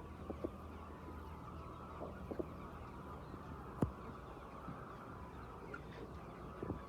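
A flock of laying hens clucking steadily over a low hum, with a few short sharp knocks scattered through, the sharpest a little under four seconds in.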